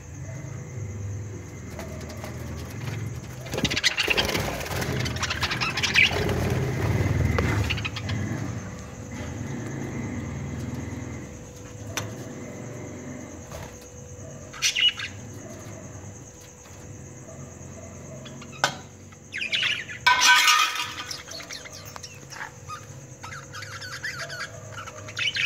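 Pet budgerigars (Australian parrots) chirping, with sharp squawks around three-quarters of the way in and a stretch of wing-flapping rustle early on.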